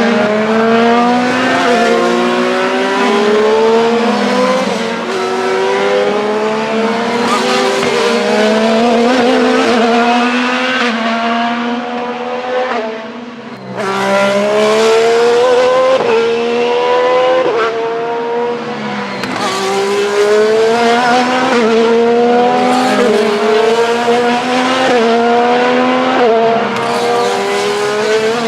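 IndyCar race cars' twin-turbo V6 engines at full throttle as a pack goes past, each engine note climbing through the gear and dropping at every quick upshift, several cars overlapping. There is a brief lull about halfway through before the next cars arrive.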